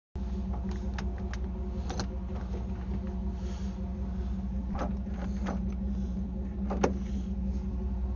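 A steady low mechanical hum with several sharp clicks and knocks, the loudest one near the end.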